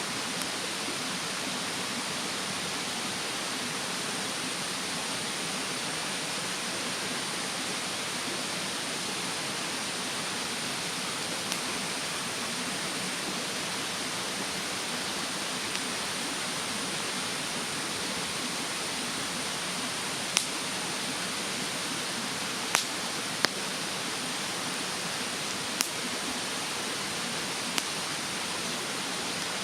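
Wood fire burning in a fire stand, giving a handful of sharp crackling pops, most of them in the second half. They sit over a steady rush of mountain-stream water.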